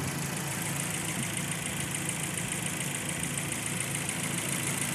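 Kia Sportage's G4KD 2.0-litre inline-four petrol engine idling steadily after a full overhaul, with a light, fast ticking over an even hum. The rebuilt engine is running well.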